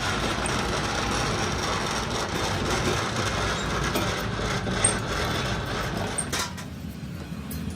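Machine tool cutting metal on a crankshaft, a steady rushing noise that stops with a click about six seconds in.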